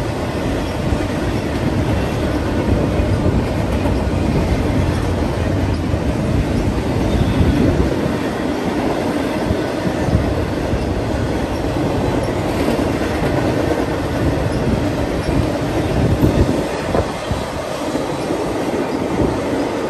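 Double-stack intermodal freight train passing, its loaded well cars rolling over the rails in a steady rumble with irregular knocks from the wheels.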